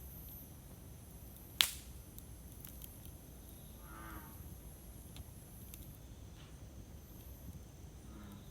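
Campfire burning with a low, steady rumble and scattered small wood crackles, with one sharp, loud pop about one and a half seconds in.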